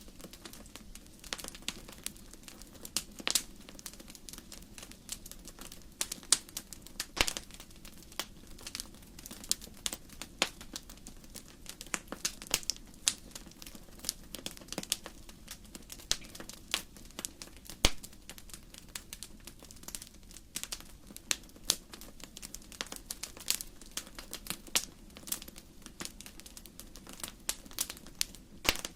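Wood fire crackling: irregular sharp pops and snaps of burning logs over a low steady hiss of the flames.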